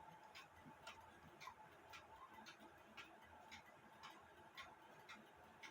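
Mechanical clock ticking faintly and steadily, about two ticks a second.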